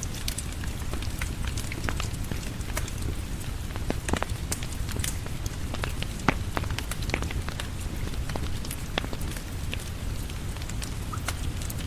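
Steady rain falling with a low rumble, mixed with a crackling wood fire: irregular sharp pops and ticks throughout, one louder pop about six seconds in.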